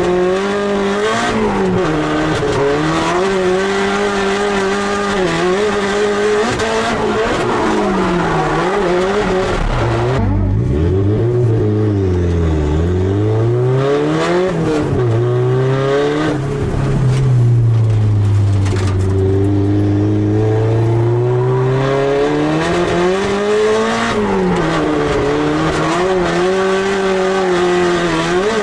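Drift car's engine heard from inside the cabin, revs rising and falling again and again through the corners, with tyre squeal from the sliding tyres over much of it. Around the middle the revs drop low, then hold fairly steady for a few seconds before climbing and swinging again.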